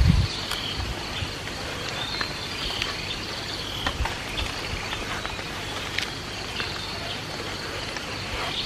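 Outdoor ambience of insects buzzing steadily at a high pitch, with short bird chirps now and then. A low thump comes right at the start, and faint light taps are scattered through it.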